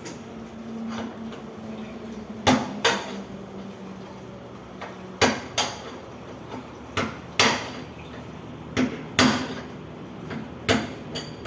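Hammer blows on metal, driving the seal and bearing out of an industrial washing machine drum's hub. The strikes come in quick pairs, about every two seconds, starting a couple of seconds in.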